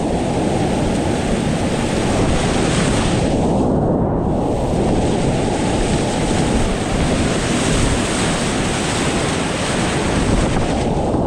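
Loud, steady rush of whitewater from a river rapid, with heavy low rumble. The higher hiss briefly thins out about three and a half seconds in and again near the end.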